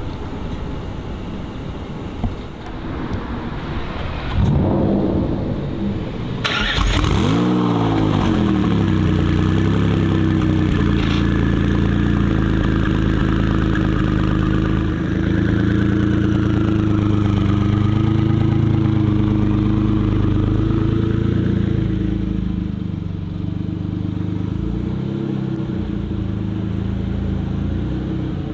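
Car engine catching and revving about six seconds in, the revs dropping away and settling into a steady idle that runs on.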